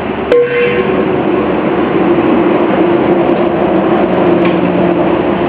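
Loud, steady mechanical rumble with a droning hum, after a sharp click about a third of a second in.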